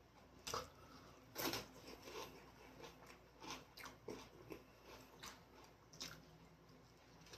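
A person eating close to the microphone: faint, irregular bites and chewing with soft crunchy clicks, about one every half second to second, the loudest near the start.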